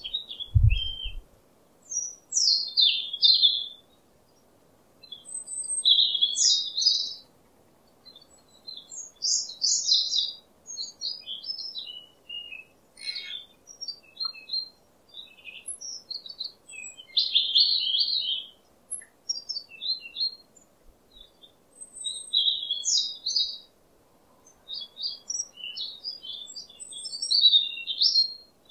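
Small bird singing, with quick runs of high chirping phrases every few seconds. There are a couple of low thumps just after the start.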